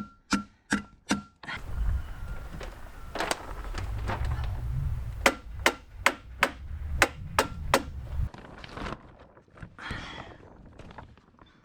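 Staples being driven into vapour barrier plastic with sharp strikes: a quick run of about four at the start, then about eight more in the middle. Wind buffets the microphone as a low rumble under the middle strikes.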